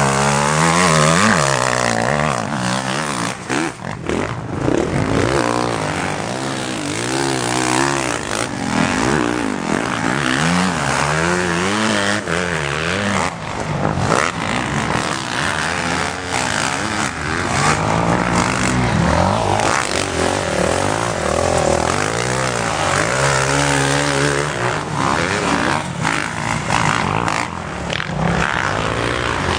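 Motocross motorcycle engines revving on the track, their pitch rising and falling over and over with throttle and gear changes, more than one bike at times.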